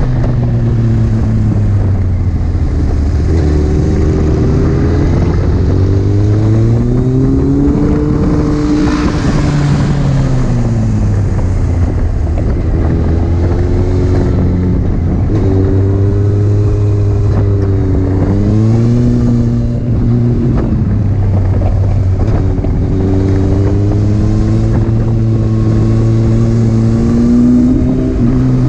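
Honda CBR929RR's inline-four engine heard on board while lapping a track, the revs climbing and dropping again and again as the rider accelerates and slows for the corners.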